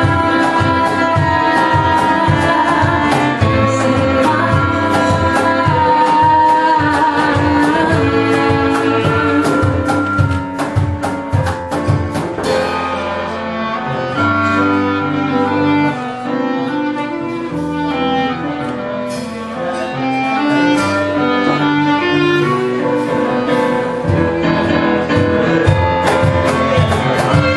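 A folk band playing a song live, with held melody notes over a beat of sharp, regular strokes. The playing thins out in the middle and fills out again near the end.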